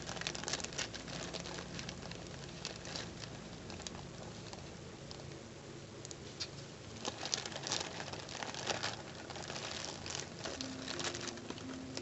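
Light crinkling, ticking and peeling of foam adhesive pads being pulled from their backing sheet and pressed onto a paper card, coming in irregular clusters and busiest a little past the middle.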